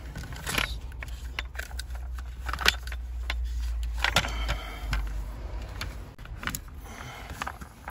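Handling noise from wiring being sorted by hand: scattered clicks, small rattles and rustles over a low rumble that fades out about five and a half seconds in.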